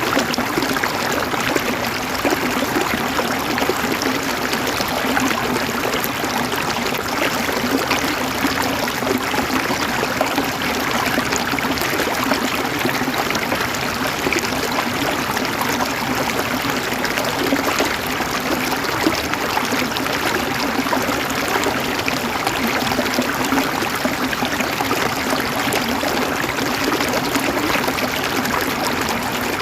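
River water flowing over rocks, a steady rushing and gurgling with fine splashing detail.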